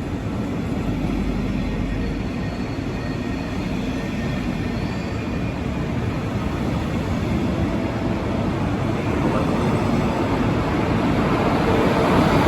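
Train running on the rails at a station, a steady rumble that grows slowly louder toward the end.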